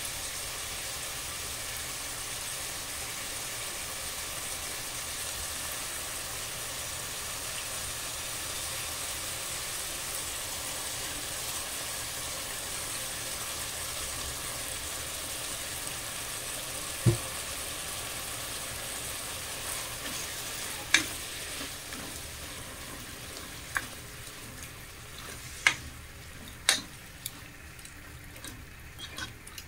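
Diced chicken and onions sizzling steadily in a pan. A little past halfway there is a sharp knock; later the sizzle grows quieter under a poured-in white sauce, and a spatula knocks against the pan several times as the mixture is stirred.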